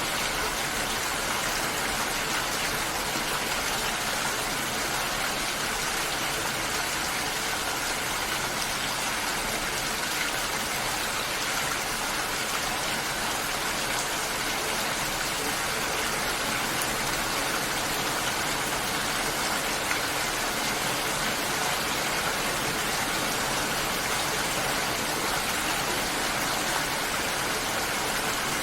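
Steady, unbroken water noise with an even hiss and no change in level.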